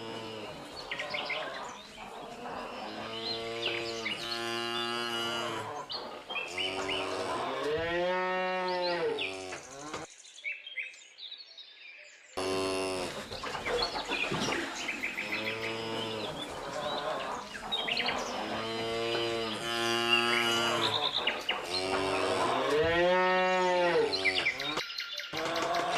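Cows mooing, several long lowing calls, one rising then falling in pitch, with small birds chirping over them. The sound drops out briefly about ten seconds in, then the same mooing carries on.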